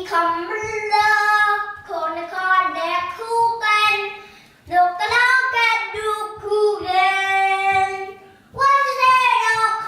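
A young child singing in a high voice, holding drawn-out notes of about a second each with short pauses between phrases.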